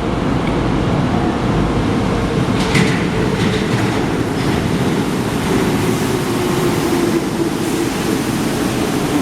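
A Santiago Metro Line 1 rubber-tyred train running through the station with a steady rumble. A motor whine slowly falls in pitch over the second half, and there is a brief high squeal about three seconds in.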